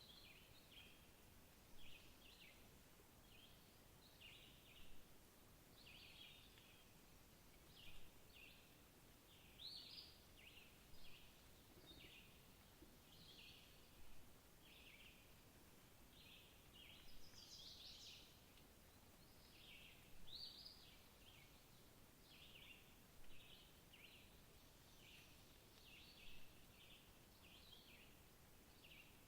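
Faint bird calls: short high chirps repeated about once or twice a second, over a quiet background hiss.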